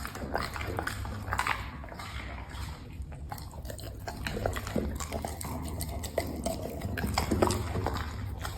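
A dog chewing and biting food, with irregular short wet smacks and clicks of its jaws.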